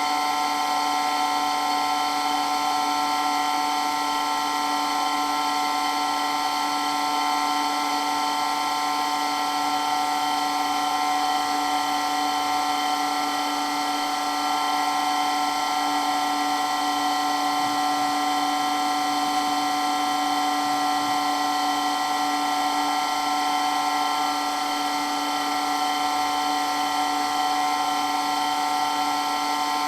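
Electric water pump running steadily with a high-pitched whine made of several constant tones, very loud and unchanging.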